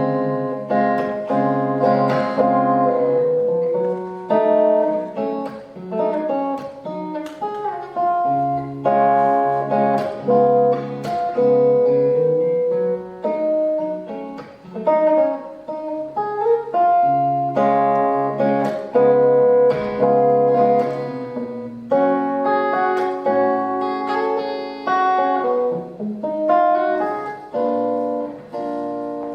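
Guitar playing an instrumental break of a song: plucked notes and chords, with no singing.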